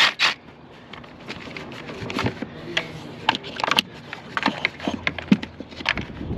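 Irregular small metal clicks and scrapes of a socket tool being fitted and worked on the coil pack bolt of a Ford F-150's cylinder 6.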